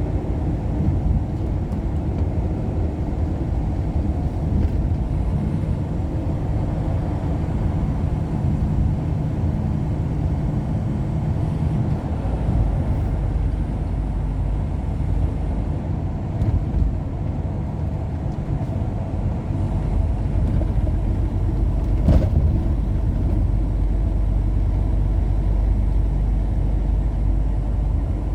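Steady low rumble of a road vehicle on the move, with a single sharp knock about 22 seconds in.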